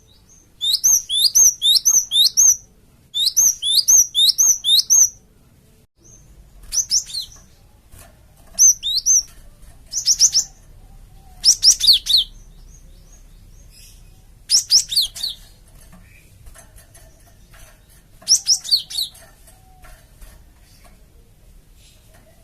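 Cinereous tit (gelatik batu) calling. It gives two quick runs of repeated high, sweeping notes, about five notes in each run. After them come shorter scattered phrases every couple of seconds, over a faint low hum.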